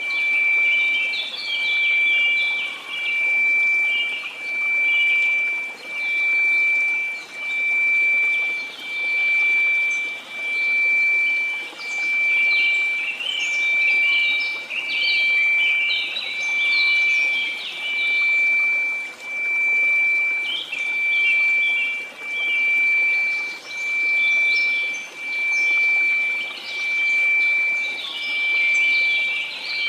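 A steady 2334 Hz sine tone over faint white noise, swelling and fading in loudness about every one and a half seconds, with short high chirps scattered over it.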